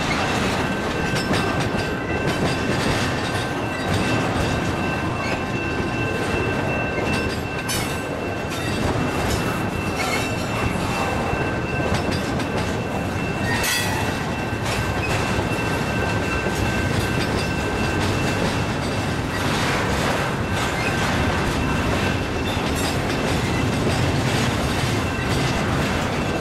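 Double-stack intermodal train of container-laden well cars rolling past: a steady rumble of steel wheels on rail, with a thin, high, steady wheel squeal over it and a sharp clack now and then as wheels cross rail joints.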